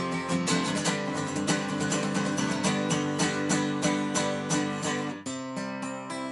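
Acoustic guitar strummed in a steady rhythm, about four strokes a second, with no singing: the instrumental close of the song. The chord changes about five seconds in.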